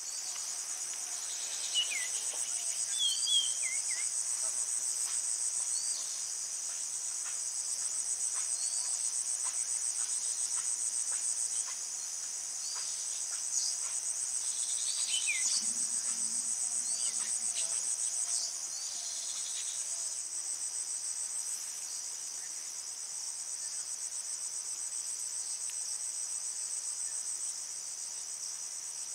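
Steady, high-pitched insect chorus, a continuous fine trill, with brief falling chirps scattered through it.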